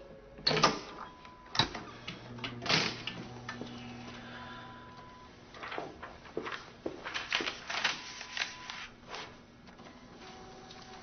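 Irregular clicks, knocks and rustles of objects being handled, some in quick clusters about two-thirds of the way through.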